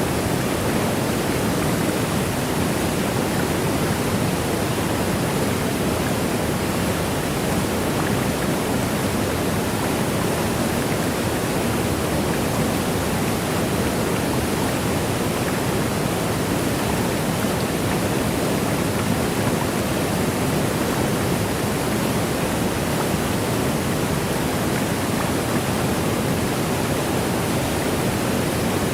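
Waterfall: water rushing and cascading in a steady, even roar-like hiss, strongest in the lower range, with no change or break.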